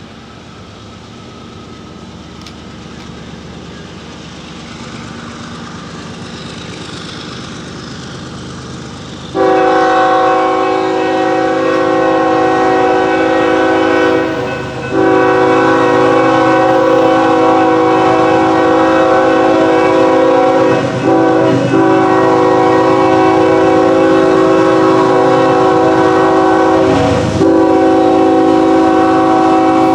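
Diesel freight locomotive approaching, its rumble growing louder, then about a third of the way in its multi-chime air horn starts blowing loud, long, nearly continuous blasts with a few short breaks.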